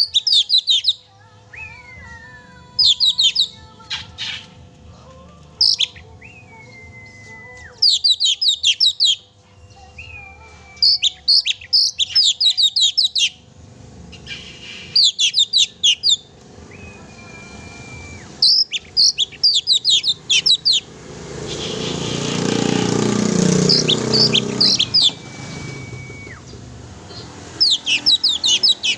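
Oriental magpie-robin singing: loud bursts of rapid, high, chattering notes every couple of seconds, with single long whistles, some sliding down in pitch, between them. About two-thirds of the way through, a louder rushing noise swells and fades under the song.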